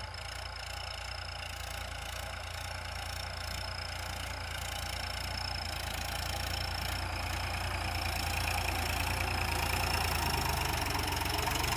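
Tractor diesel engine running steadily, growing gradually louder, with a thin steady high whine over the engine sound.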